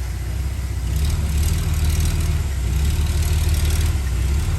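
Heavy earthmoving machine's diesel engine running with a steady low rumble. It grows louder about a second in, as if under load or being revved.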